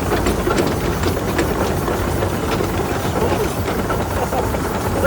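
Tractor engine running steadily with a low hum, with faint irregular clicks or rattles on top.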